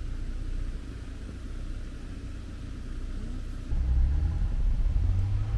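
Jeep engine running as it drives through deep snow, a low rumble that gets louder about two-thirds of the way in as the Jeep comes close.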